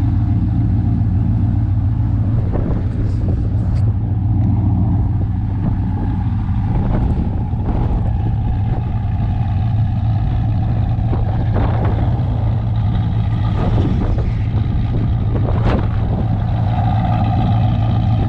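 Strong storm wind buffeting the microphone: a loud, steady low rumble with a few brief gusty thumps.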